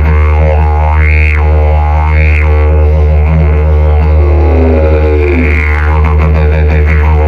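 Hemp didgeridoo in the key of E, with its mouthpiece widened to 35 mm, played as a steady low drone. Its overtones sweep up and down every second or two.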